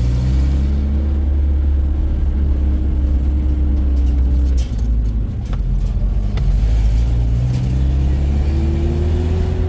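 Car engine running under way. Its note climbs, drops away briefly about halfway through, then climbs again toward the end.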